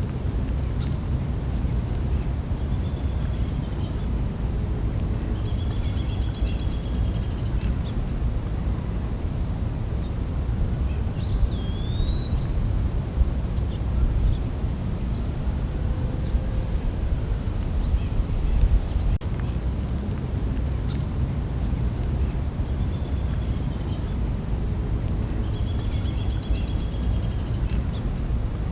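Night forest insect chorus: a steady high-pitched trill with crickets chirping in quick pulsed runs over a low rumble. A few short arched calls stand out, two near the start and two again near the end.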